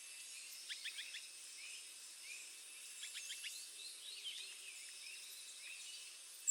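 Sunbird giving short, high, quick chirps: a rapid run of about four notes about a second in, and another cluster around three to four seconds in. Underneath is a steady, faint, high hiss of background insects.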